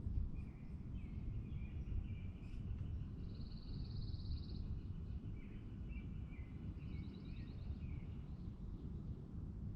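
Small songbirds singing: several chirping phrases and a fast high trill about three and a half seconds in, with another quick trill near the seven-second mark, over a steady low background rumble.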